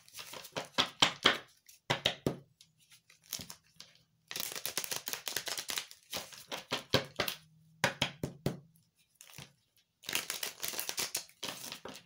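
Tarot cards being shuffled and handled by hand: several bursts of rapid flicking and rustling, with sharp clicks of cards between them.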